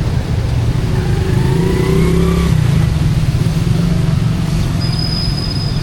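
Motor vehicle engine running close by in street traffic, rising in pitch as it speeds up about a second in. A thin high steady tone comes in near the end.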